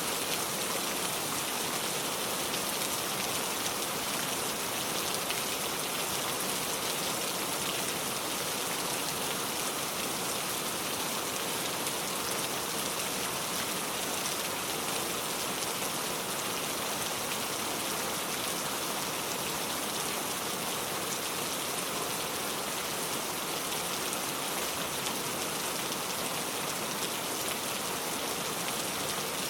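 Steady rain falling on a car, an even hiss of many drops.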